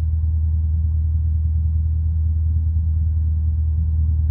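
Light aircraft's piston engine running steadily at low power while taxiing, a constant low drone.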